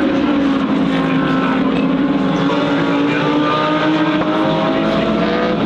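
GT3 race car engines running at speed, several engine notes together, their pitch slowly rising.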